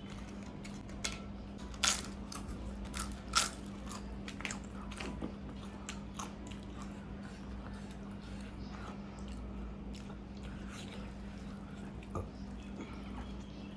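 Close-miked eating: chewing with a few sharp crunching bites, the loudest about two and three and a half seconds in and another near the end. A steady low hum runs underneath.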